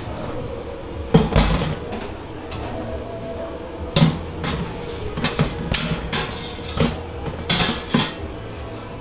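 Dishwashing clatter in a dish pit: pots, pans and crockery knocked and set down, a run of about nine sharp knocks and clanks, the loudest about a second in and at four seconds.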